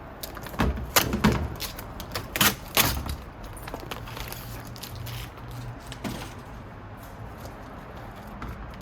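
Parts of an iMac being handled during disassembly: a handful of sharp knocks and clatters in the first three seconds, then quieter handling noise.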